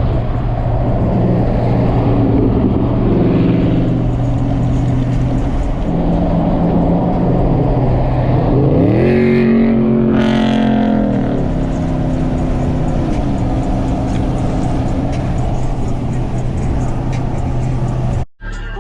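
Car engine running with a steady drone. About nine seconds in it revs up in a quick rising sweep, holds briefly, then eases back down in steps.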